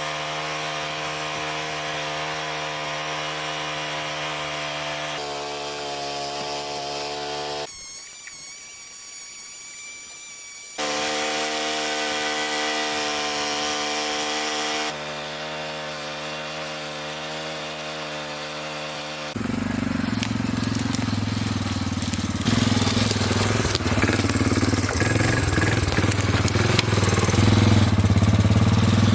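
Small gas engine of a portable sawmill running steadily, heard in several short edited segments that change abruptly. The last third is louder and rougher, with a heavy low rumble and clatter.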